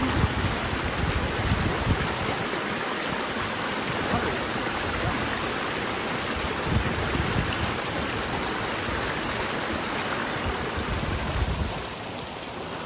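Stream water rushing steadily, with uneven low rumbles underneath; the higher hiss of the water thins out near the end.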